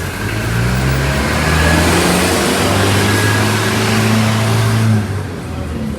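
A motor vehicle's engine running loudly close by, its pitch stepping up and changing as it drives, then dropping off suddenly about five seconds in.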